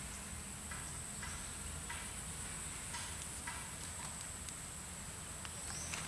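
Evening insect chorus, a steady high-pitched drone of crickets, with a few faint short chirps or clicks now and then.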